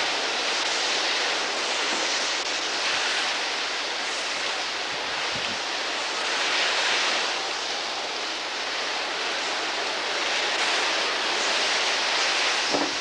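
Hurricane-force wind from Hurricane Andrew blowing hard past the camcorder's microphone, a steady rushing noise that surges in gusts every few seconds, with a brief knock near the end.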